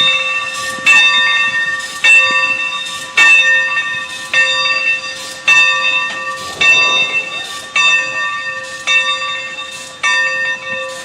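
Steam locomotive bell ringing steadily, one stroke about every second, each ring dying away before the next.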